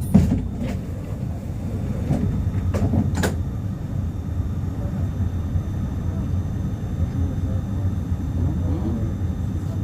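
Tram running, heard from inside the car: a steady low rumble of the running gear, with a few sharp clicks or knocks in the first few seconds and a faint high steady whine from about halfway.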